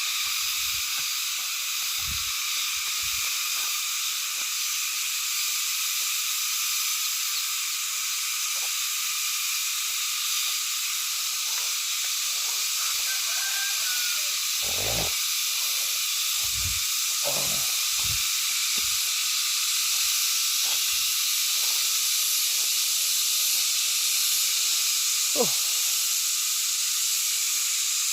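A dense, steady chorus of forest insects, a continuous high shrill hiss with no breaks. Scattered soft low knocks and a sharp click near the end run under it.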